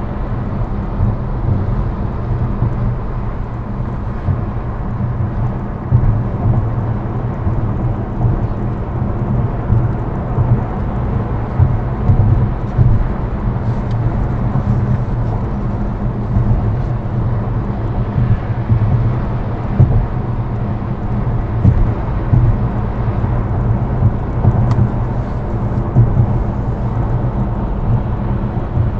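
Steady low road and engine rumble heard from a moving car, with speeding vehicles passing alongside.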